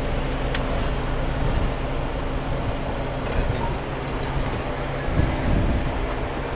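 Jeep Wrangler's engine running steadily at low revs while the Jeep crawls over rocks, with a slightly louder low rumble about five seconds in.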